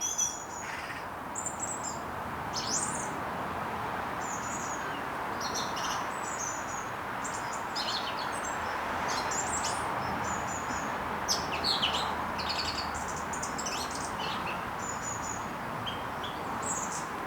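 Small songbirds chirping and tweeting in many short, quick calls over a steady background hiss.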